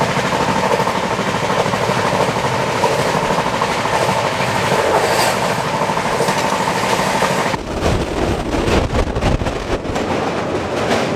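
Express passenger train running at speed: wheels clattering on the rails over a steady noise with a thin whine. About seven and a half seconds in, the sound turns rougher and more uneven, with a heavier low rumble, as the train crosses a river bridge.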